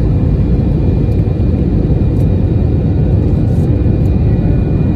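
Jet airliner engines giving a loud, steady rumble, with a faint steady high whine over it.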